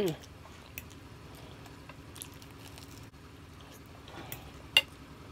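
A person chewing a mouthful of creamy crawfish and shrimp fettuccine, with soft wet chewing and squishing. It opens with a brief falling "mm" hum, and a single sharp click comes near the end.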